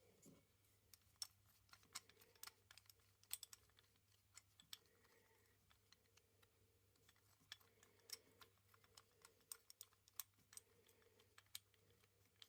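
Faint, irregular light clicks and taps, sometimes several in quick succession, over a low steady hum.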